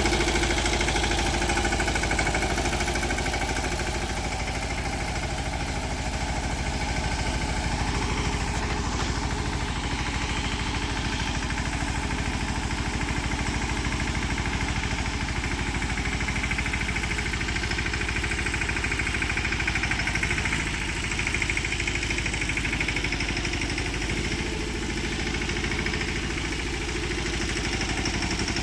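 Mahindra Yuvraj 215 NXT mini tractor's single-cylinder diesel engine running steadily, with a knocking diesel beat.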